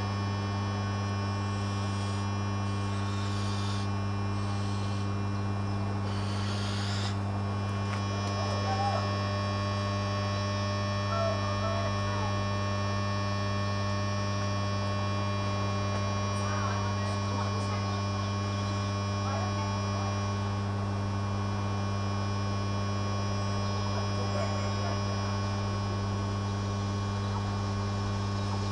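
Steady electrical hum with a deep buzz and many higher overtones, unchanging in pitch or level, with a few faint chirps partway through.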